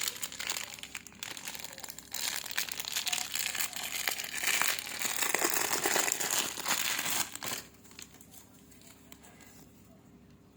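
Packaging crinkling and rustling as it is handled and unwrapped, with some tearing, stopping about three-quarters of the way through and leaving quiet room tone.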